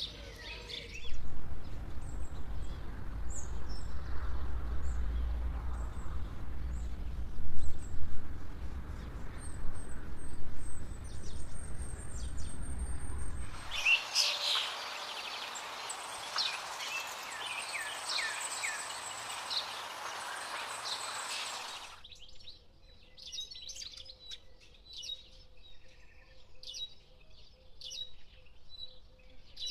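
Small birds chirping and calling in quick short notes, over changing background noise: a low rumble for the first half, then a loud hiss, then a quieter stretch; the background changes abruptly about 14 and 22 seconds in.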